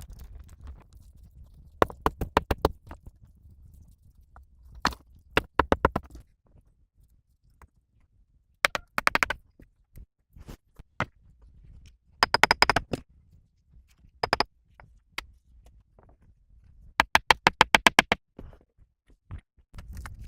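Repeated bursts of rapid sharp knocking, about nine or ten knocks a second, each burst lasting up to a second. There are some six bursts with short pauses between them.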